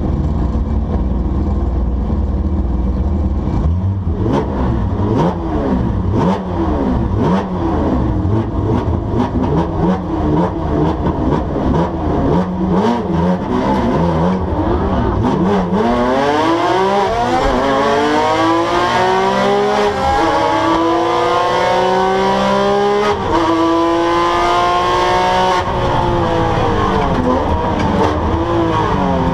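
Porsche 911 GT3 flat-six engine, first at low and uneven revs with clicks, then from about 15 seconds in accelerating hard: the pitch climbs and drops back at each upshift, several times in a row.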